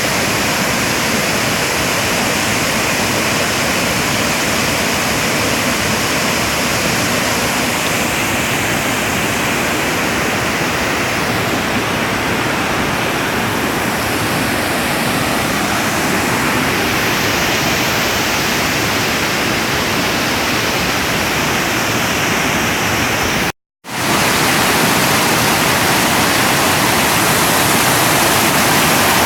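Waterfall rushing in a steady, dense roar of falling water. It drops out completely for an instant near the end, then carries on.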